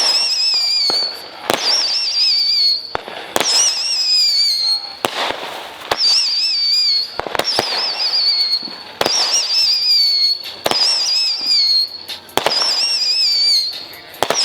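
Whistling fireworks going off one after another: about every second and a half a sharp pop, then a high, wavering whistle that sinks a little in pitch before the next shot, about eight times in a row.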